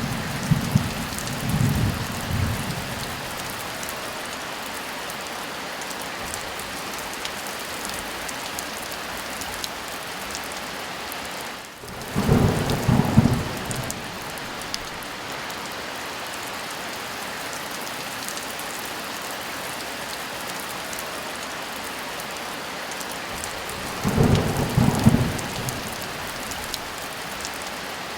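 Steady heavy rain, with low rolls of thunder three times: at the start, about halfway through and near the end.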